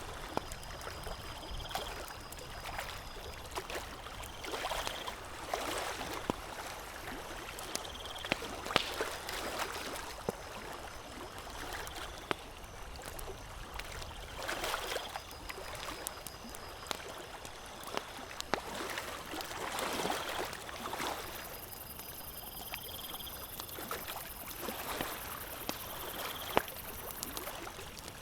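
Campfire crackling, with sharp pops scattered irregularly throughout, over a soft rushing that swells and fades every few seconds.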